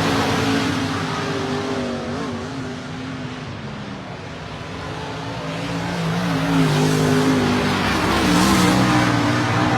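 Dirt modified race cars running at speed on the track, several engines at once: the sound fades as they move away and swells again as they come back round near the end.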